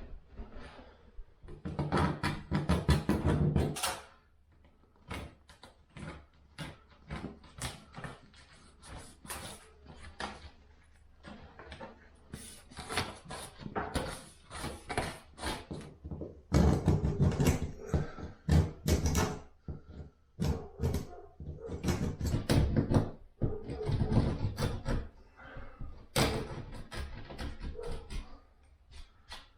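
Irregular knocking, clattering and scraping of hand renovation work on a bathroom's walls and ceiling, coming in busy spells with quieter gaps between.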